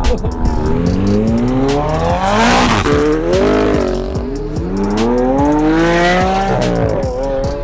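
Lamborghini Aventador SV's naturally aspirated V12 at full-throttle acceleration. The revs climb steeply and drop back at each upshift, about two and a half seconds in and again near the end.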